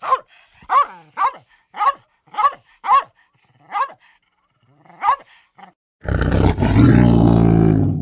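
An animal barking in a series of short, pitched barks, about two a second, followed about six seconds in by a loud, deep, drawn-out roar.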